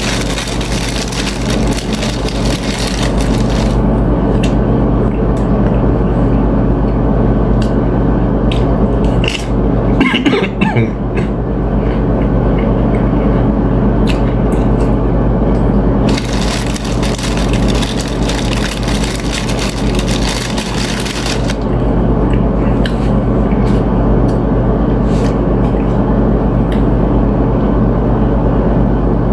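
Close-up chewing and crunching of chips, in two long crackly bouts with scattered sharp crunches between, over a steady low hum.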